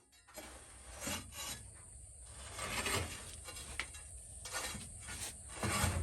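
Irregular rough scraping strokes, about half a dozen, the last one the loudest.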